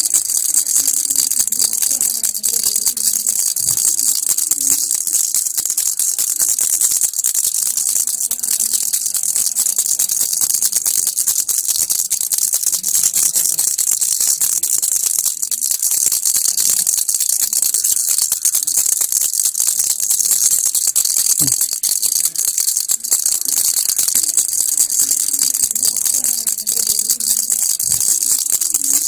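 Baby rattle shaken continuously: a fast, unbroken, high-pitched rattle of small beads.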